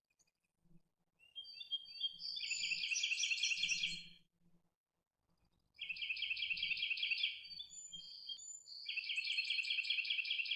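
A songbird singing three phrases a second or two apart. Each phrase opens with a few short high notes and runs into a fast, even trill.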